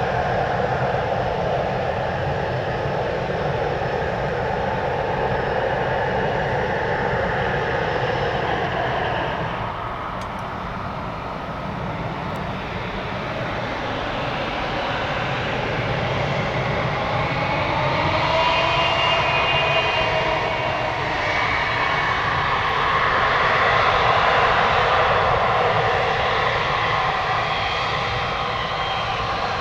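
Boeing 777F freighter's twin GE90 turbofans running at low taxi power as the jet rolls close by. The steady engine noise dips briefly about a third of the way in, then swells, with a whine that bends in pitch, loudest about two-thirds of the way through.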